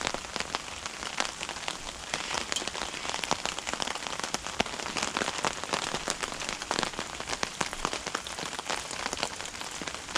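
Steady rain falling, with many separate drops ticking sharply on a surface.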